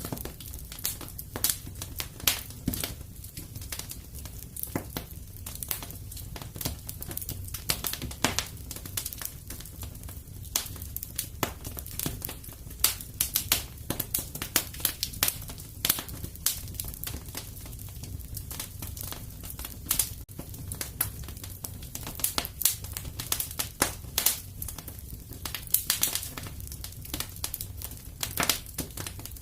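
Fireplace fire crackling, with frequent irregular snaps and pops over a steady low rumble.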